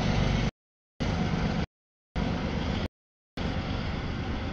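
Freight train rumbling past with a low engine hum, the sound cut into short chunks of under a second separated by dead silence.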